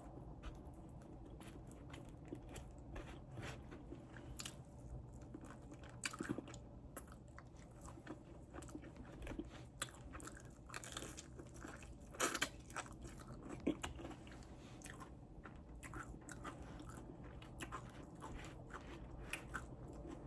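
Close-miked biting and chewing of fried chicken wings: irregular crunches and wet mouth clicks over a low steady hum, with the loudest crunches about twelve and thirteen and a half seconds in.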